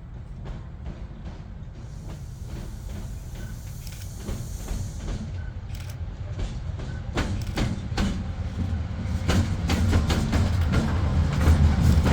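Train approaching through a station, its rumble growing steadily louder, with sharp wheel clicks over rail joints and points coming more often and more loudly in the second half.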